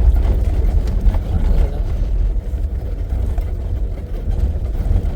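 Safari vehicle driving, heard from on board: a steady low engine and road rumble.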